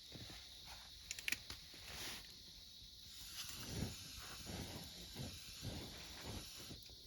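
Wood campfire crackling, with a quick cluster of sharp pops about a second in and soft flame rustling and hissing afterward, under a steady trill of autumn insects.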